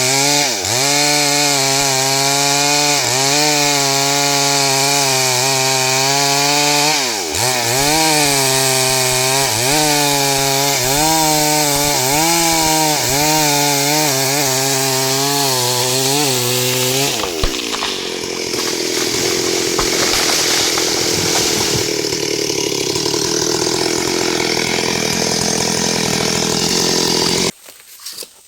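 STIHL 72cc two-stroke chainsaw running under load as it cuts through wood, its engine pitch repeatedly dipping and recovering as the chain bites into the cut. About 17 seconds in the sound turns rougher and noisier without a clear engine note, and it cuts off abruptly about a second before the end.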